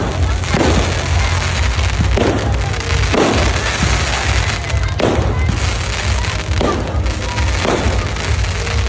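Fireworks going off repeatedly, with separate bangs roughly a second or so apart, over a continuous low rumble and crackle.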